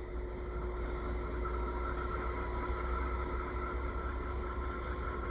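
Diesel locomotive running steadily: a low rumble with a steady whine above it.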